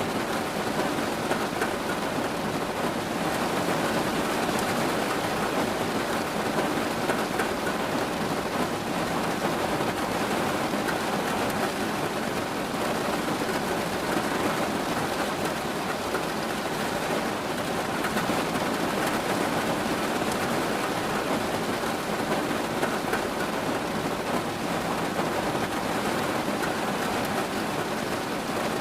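Steady, heavy rain falling, a continuous even hiss of drops with no breaks or distinct events.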